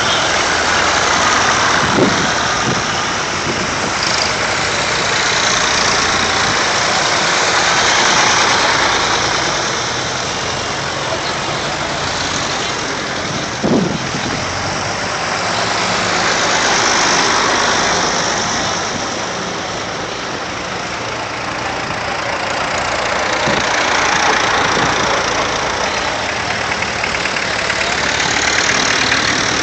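Vintage tractor engines running as tractors drive past one after another, the sound swelling and fading as each one passes. Two brief, sharper sounds stand out, about two seconds in and again near the middle.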